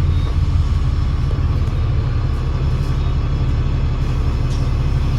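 Alexander Dennis Enviro500 MMC double-decker bus with a Voith TL4620 gearbox running, a steady low engine rumble with no change in pitch.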